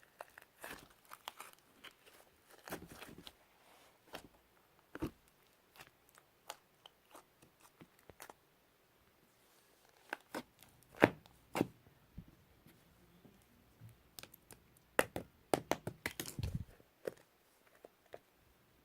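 Slime being squeezed and stretched by hand, giving irregular small pops, clicks and crackles, with a quick run of them about three-quarters of the way through.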